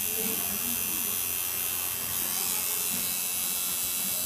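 Electric tattoo machine buzzing steadily.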